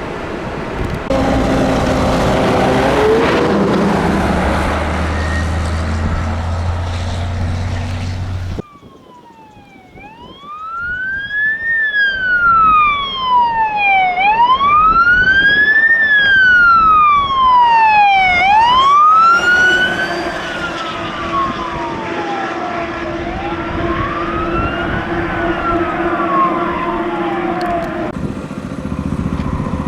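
Fire engine's wail siren sweeping slowly up and down, one cycle about every four seconds, over the truck's engine, after several seconds of heavy vehicle engine noise.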